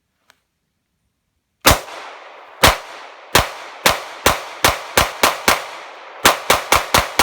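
HK P30 pistol fired in a string of about fourteen shots, starting about two seconds in, each with a short echoing tail. The shots come about a second apart at first, then faster, three or four a second, with a brief pause near the end.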